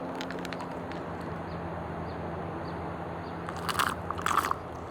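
Someone biting into and chewing a crunchy snack, with two loud crunches about three and a half seconds in, over a steady low hum.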